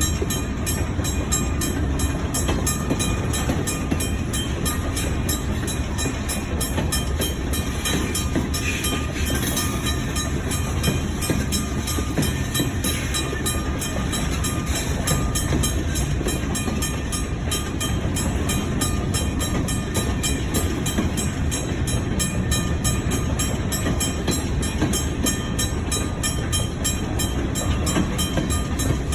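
Ann Arbor Railroad train in a pushback (shoving) move, its railcars and wheels running steadily on the rails in a continuous low rumble.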